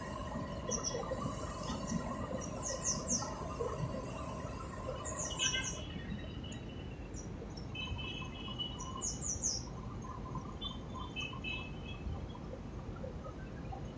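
A bird's high chirps in quick runs of three or four falling notes, repeated several times, over a steady low background din.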